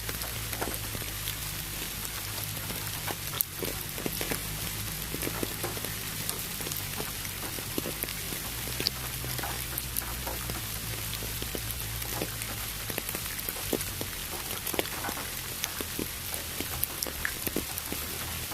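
Steady rain with many separate drop ticks over an even hiss of pink noise. A low steady hum runs underneath and changes pitch a few times.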